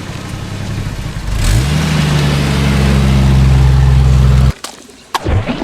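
Engine sound revving up in pitch about a second and a half in, then running steady and loud before cutting off suddenly, followed by a few sharp clicks.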